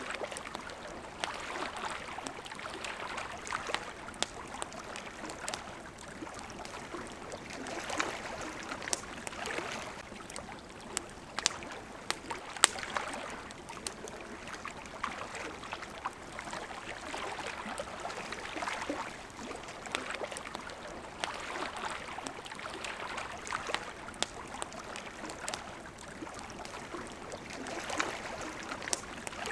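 Gently moving water, a steady wash that swells and ebbs every few seconds, with the scattered sharp pops and crackles of a wood campfire over it.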